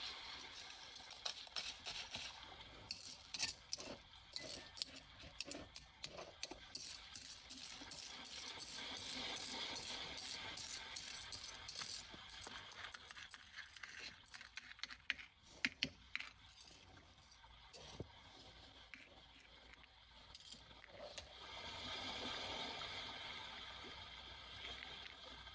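Small hard objects clicking and rattling as beach debris is picked through by hand, with quick runs of clicks that thin out after about two thirds of the way in. Sea waves wash in gently twice in the background.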